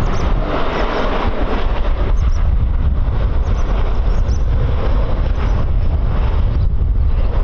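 Strong wind buffeting the microphone: a heavy, uneven low rumble with a broad rushing noise over it.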